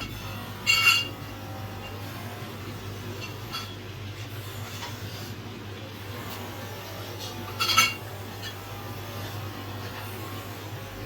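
Metal exhaust pipe parts clinking: two sharp, ringing metallic clinks about seven seconds apart, over a steady low hum.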